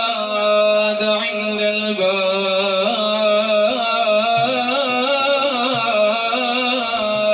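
A man's voice singing a drawn-out, wavering melismatic phrase of an Arabic devotional praise song (madih), without clear words, over a steady low held note.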